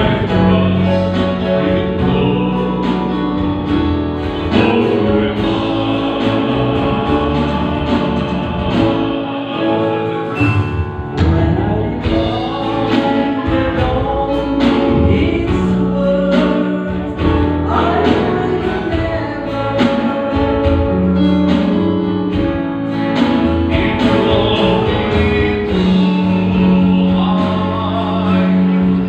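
Gospel-style song: voices singing over instrumental accompaniment with long held bass notes.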